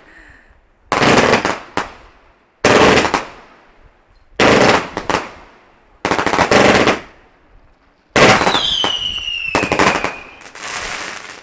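Fireworks going off: six loud bangs about one and a half to two seconds apart, each with a short crackle, and a falling whistle about eight seconds in.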